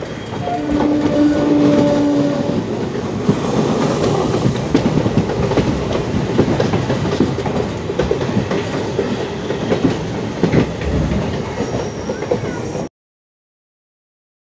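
Passenger train running on the rails, wheels clattering over rail joints, with a brief steady tone near the start. The sound cuts off abruptly to silence near the end.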